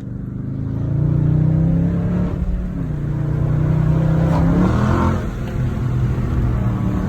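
Car engine and exhaust accelerating while driving, heard from inside the car with the window down. The pitch climbs, rises again around four to five seconds in, drops back near five seconds, and then holds steady.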